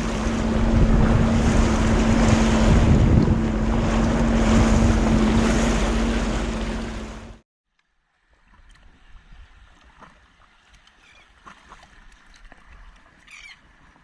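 Sea-Doo personal watercraft engine running slowly with a steady hum, wind and water noise, cutting off abruptly about seven seconds in. Faint quiet ambience follows, with a short chirp near the end.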